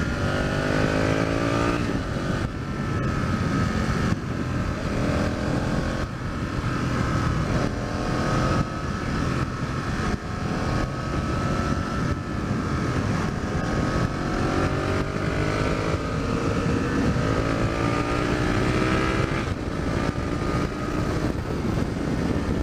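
2005 Aprilia RSV Tuono's 998 cc V-twin engine and exhaust pulling hard, the pitch climbing through the revs and dropping back at each gear change, several times over. Wind rushes over the microphone underneath.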